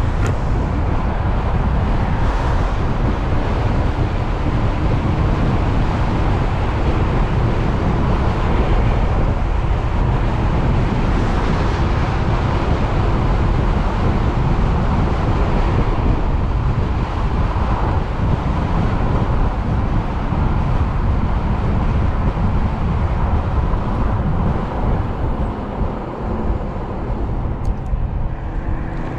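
Wind rush and road noise while riding an electric motorcycle: a steady, loud low rumble with hiss above it that eases slightly near the end.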